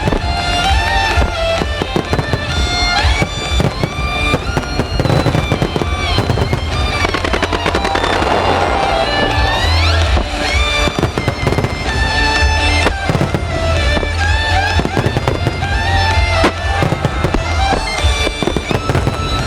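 Firework shells bursting and crackling in rapid, continuous succession over music played through loudspeakers, as a display synchronized to music.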